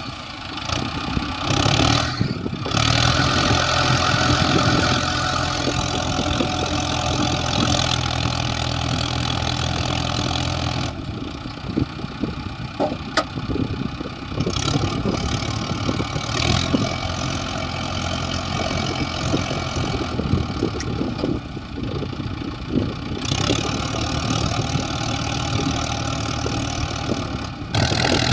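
Heavy diesel engine running continuously, its note and level shifting a few times.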